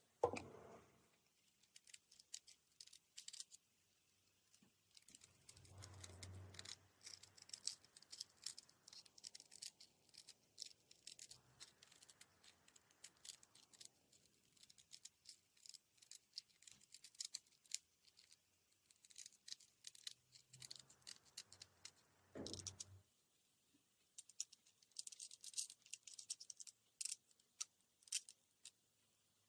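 Near silence with faint, scattered clicks and taps and a couple of soft low thumps, about six seconds in and again near twenty-two seconds.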